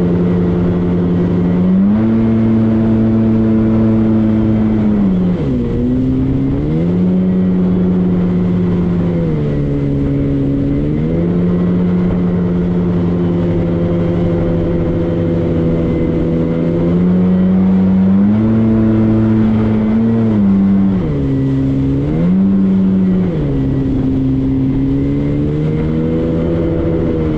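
Motorboat engine running under way, its pitch holding steady for stretches and then dropping and climbing back several times as the revs change.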